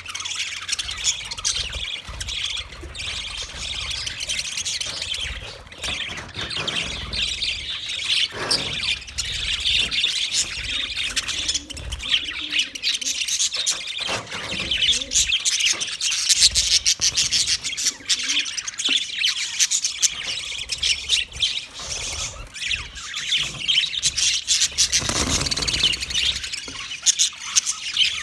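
Budgerigars chattering: many overlapping chirps, warbles and squawks, continuous and busy.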